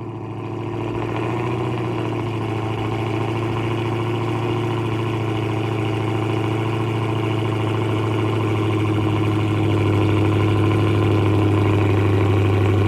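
Dodge Charger Hellcat's supercharged 6.2-litre HEMI V8 idling just after a cold start, through a muffler-deleted exhaust: a steady, deep, loud drone. It gets a little louder about ten seconds in.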